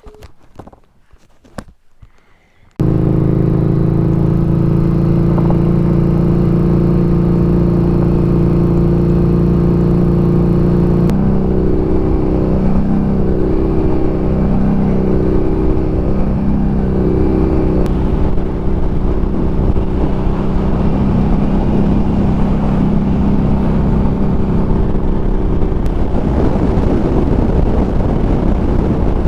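Harley-Davidson Street Rod 750's liquid-cooled V-twin running loud and steady, cutting in suddenly about three seconds in. Partway through, its pitch wavers up and down in a slow repeating swell, and near the end a rushing noise builds over it.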